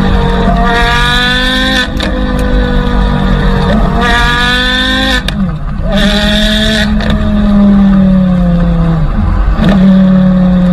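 A car engine revving hard. Its pitch climbs over about a second and drops back suddenly several times, as if shifting up through the gears, then holds lower and steadier near the end.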